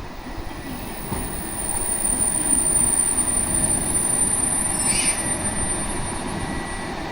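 KiHa 283 series diesel express train running into the platform, its wheel and running noise swelling about two seconds in and easing toward the end. A brief high squeal comes a little past the middle, over a steady high whine.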